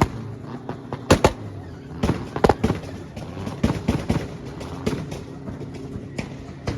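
A car's exhaust popping and crackling in quick irregular bursts of sharp cracks over a low idling engine.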